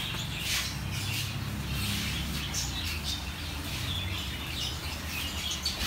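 Small birds chirping in short, high, scattered chirps over a steady low hum.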